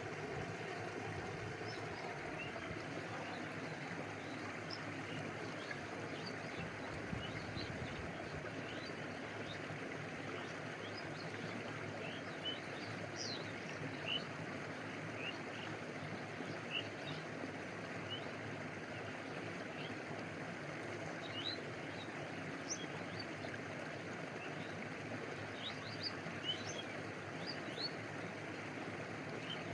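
Steady rush of a stream with water lapping close by, and short high chirps of small birds scattered over it, growing more frequent in the second half.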